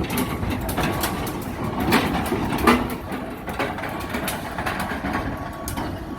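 Telehandler engine running under load while dragging a heavy machine off a steel trailer deck, with a steady low rumble and repeated creaks, clanks and knocks of steel on steel. One loud knock comes about two and a half seconds in.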